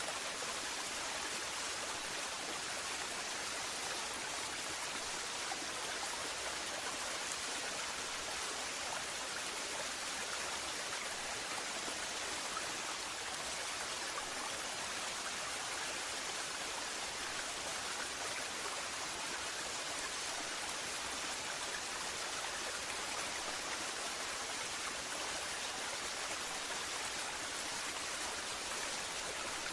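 Waterfall: a steady, unchanging rush of falling water, mostly a bright hiss with little deep rumble.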